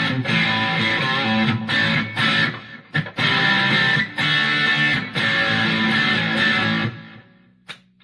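Electric guitar on its bridge humbucker played through a Boss DS-1 distortion pedal set to medium distortion, giving a crunchy, distorted sound: chords with short breaks between them. The playing stops about seven seconds in, leaving a low amp hum.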